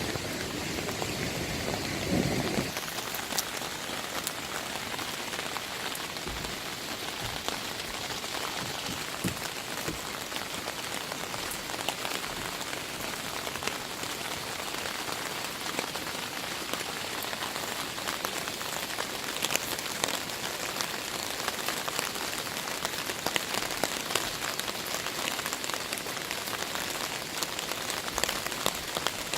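Heavy rain falling steadily: a dense, even hiss with the patter of countless individual drops. A brief low rumble sits under it in the first couple of seconds.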